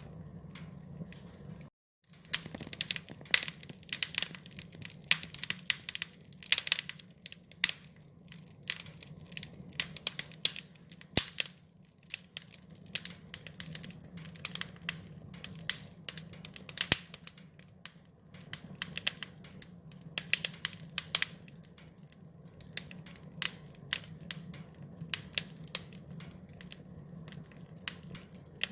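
Wood fire crackling, with irregular sharp pops and snaps over a steady low hum. The sound drops out completely for a moment about two seconds in.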